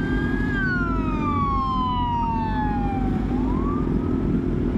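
Police siren wailing: one long, slow falling sweep, then it starts to rise again near the end. Underneath is a steady low rumble of engine and wind noise.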